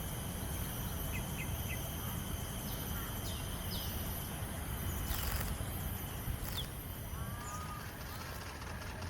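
Wild birds giving short, sharp downward-sweeping chirps every second or so, with a few lower, softer call notes near the end. Under them runs a steady low outdoor rumble and a thin, steady high-pitched hum.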